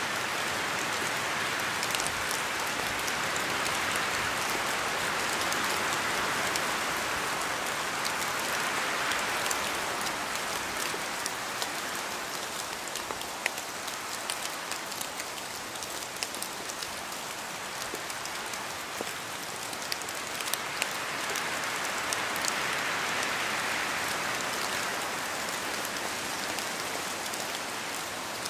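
Steady rain falling: an even hiss with scattered sharp drop ticks. It eases a little midway and swells again toward the end.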